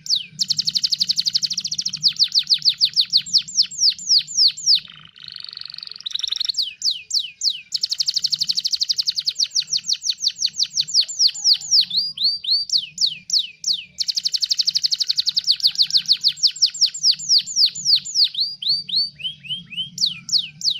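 Domestic canary singing fast trills of rapidly repeated downward-sweeping notes in long phrases, with a short raspy passage about five seconds in and a brief pause about two-thirds of the way through.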